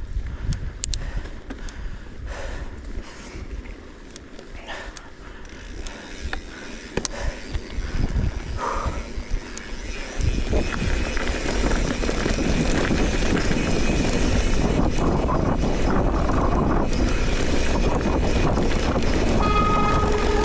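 Mountain bike riding on a dirt trail: scattered clicks and rattles of the bike over rough ground, then from about ten seconds in a louder, steady rush of wind and rolling noise.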